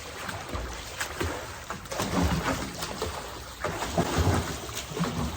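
Water sloshing and splashing against the microphone, with uneven low rumbling thumps and no steady engine note.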